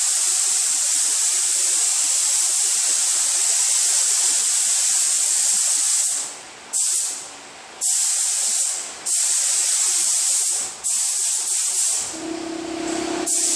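Air-fed paint spray gun hissing as a coat is sprayed on, unbroken at first and then, from about six seconds in, in passes of about a second with short gaps where the trigger is let go. A steady low hum joins in near the end.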